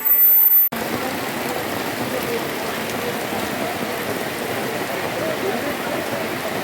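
Heavy rain falling steadily as a dense, even hiss. It starts just under a second in, after a short, loud, high-pitched electronic tone.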